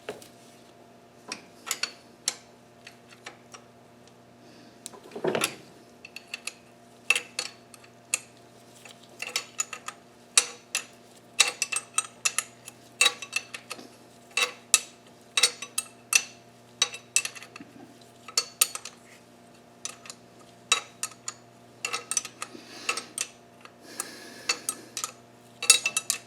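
Metal hand tools and engine hardware clinking and tapping in short, irregular clicks, with a louder knock about five seconds in, over a steady low hum.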